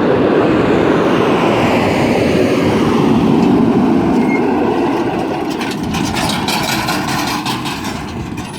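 A heavy vehicle passing close by: a loud, steady rumble that fades away toward the end, with a quick run of clicks late on.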